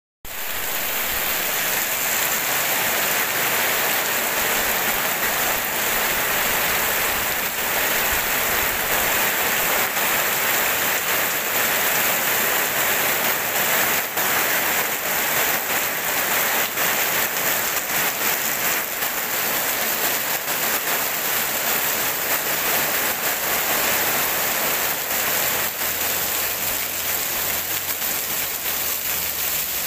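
Steady rain pouring onto wet pavement and plants: a dense, even hiss with many small drop splashes, and no thunder.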